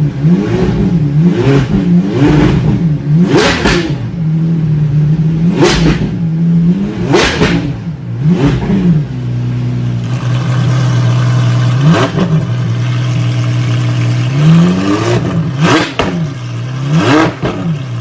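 A high-performance car engine idling and being blipped again and again. Each rev shoots up to a high pitch and drops straight back to idle, about a dozen times, with a longer idle stretch near the middle.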